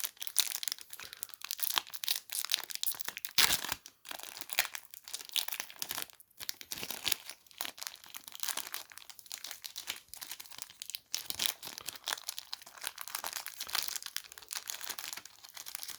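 Foil wrapper of a Pokémon trading-card booster pack crinkling and tearing as it is worked open by hand: an irregular run of crackles and rustles with a few sharper rips.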